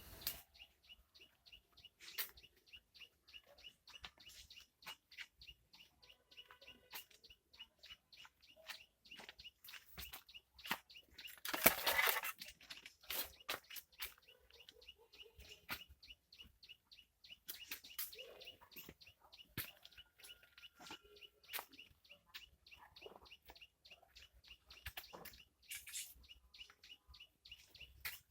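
Birds chirping, short calls repeated in quick succession, with a louder, noisier rustling burst about twelve seconds in.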